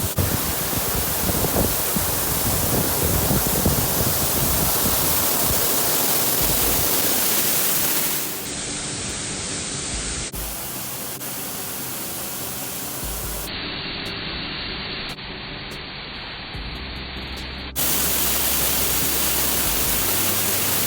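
Steady rush of falling water from a monsoon-fed waterfall. Its tone changes abruptly several times, at cuts between shots.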